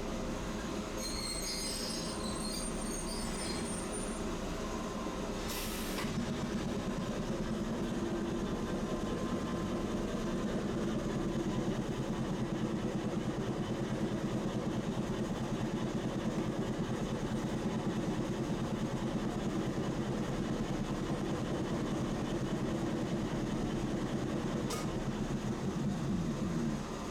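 Tosaden streetcar running on its tracks: a steady rumble of motor and wheels on rail that grows louder after about six seconds. A brief high squeal comes in the first few seconds, and a sharp click is heard around six seconds.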